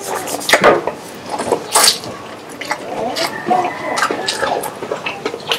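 Close-miked wet chewing and lip-smacking while eating fried chicken, with a quick series of sharp crunches and clicks.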